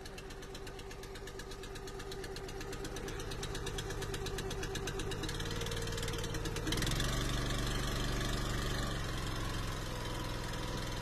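Small gas engine of an Eastonmade hydraulic wood splitter running as it warms up, a steady rapid firing beat that grows gradually louder and changes tone about seven seconds in.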